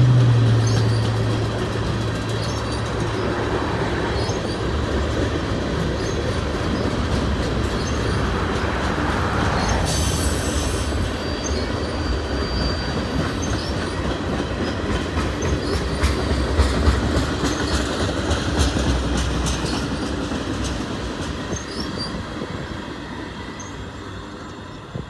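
Freight train cars rolling past, wheels clacking and squealing on the rails. A low locomotive drone fades out in the first second or so, and the rolling noise dies away near the end.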